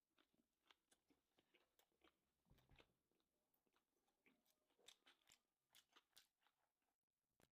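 Faint chewing of a mouthful of sushi: irregular wet mouth clicks and soft crunches.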